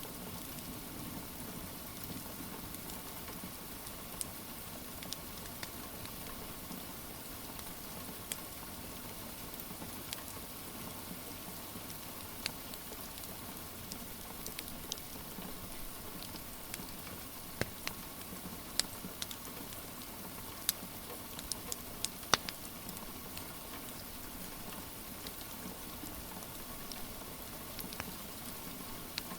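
Steady rain hiss with a wood fire crackling over it: scattered sharp pops and snaps, a few louder ones bunched together about two-thirds of the way through.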